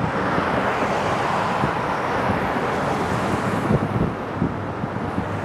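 Vehicle driving on a slushy road: a steady rush of tyre and road noise, with a few low thumps near the end.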